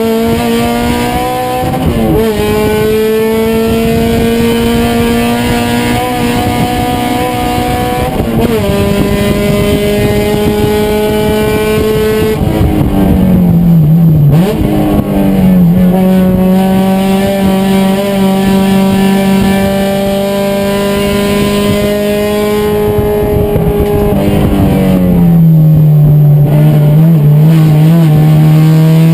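Racing car engine under hard use through the gears. Its note climbs steadily and drops sharply at upshifts about two and eight seconds in. Around halfway the pitch falls and jumps as it slows and downshifts, then it holds a fairly even note before another drop near the end.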